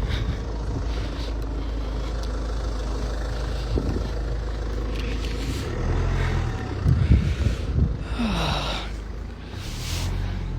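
Car driving on a snowy, slippery road: a steady low rumble of engine and tyres, with a few louder low thumps about two-thirds of the way through.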